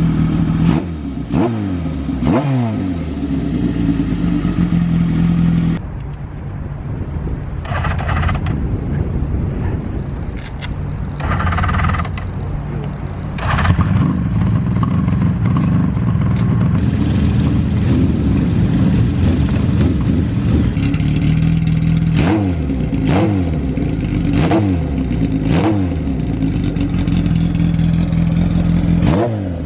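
Large 1970s motorcycle engine idling, blipped a few times near the start and then given a run of about six quick throttle blips near the end, the revs dropping back to idle after each one.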